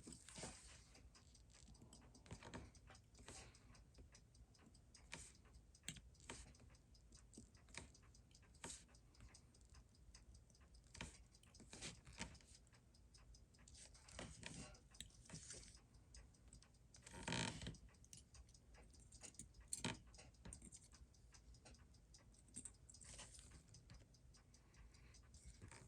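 Faint, irregular light clicks of watchmaker's tweezers and small metal watch parts being handled during movement reassembly, with a slightly louder clatter about two-thirds of the way through.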